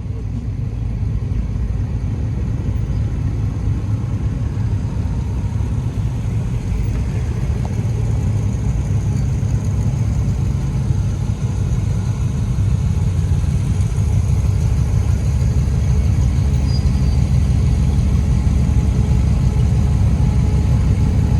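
Steady low motor-vehicle rumble that grows somewhat louder in the second half.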